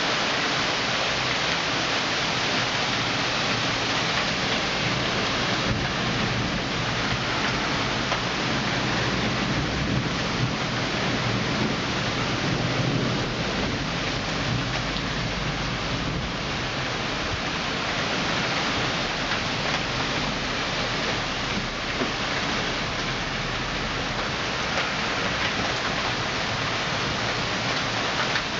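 Heavy thunderstorm rain falling steadily, an even downpour hiss, with a low rumble swelling in the middle.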